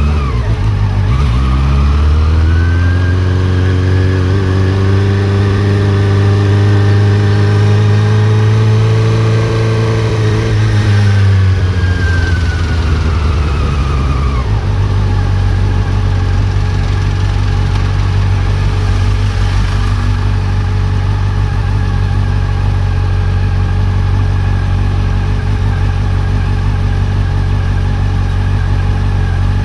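Honda CB400 Super Four's inline-four engine: its speed climbs over a couple of seconds, holds steady for about eight seconds, then falls away and settles into a steady idle about halfway through.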